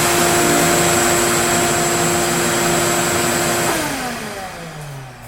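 A high-speed electric motor running steadily with a whine, then switched off a little over three and a half seconds in and spinning down with falling pitch.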